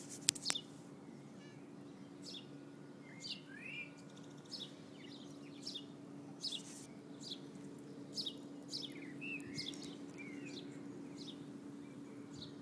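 Small birds chirping: short, high, falling chirps repeated about once a second, with a few longer curving calls, over a faint steady low hum. Two or three sharp clicks just after the start are the loudest sounds.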